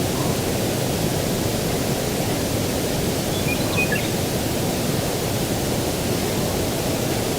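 Steady rushing breeze in open country, with a few faint, short bird chirps about three to four seconds in.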